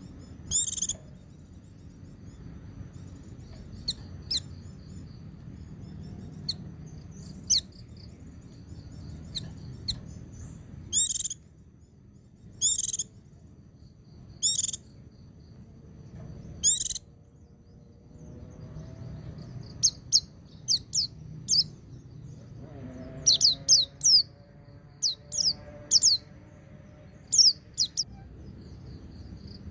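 White-eye (pleci) singing: short, high, sharp chirps spaced a second or two apart, then from about two-thirds in a quicker run of quick downward-sweeping notes, over a faint low background hum.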